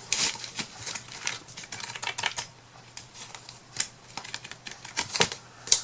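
Sheets of scrapbook paper being handled and shuffled on a table: irregular light taps, clicks and rustles.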